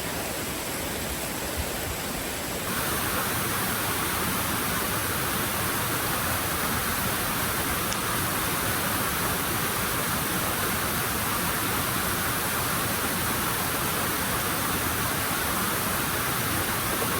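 Waterfall pouring: a steady, even rush of falling water that turns a little brighter about three seconds in.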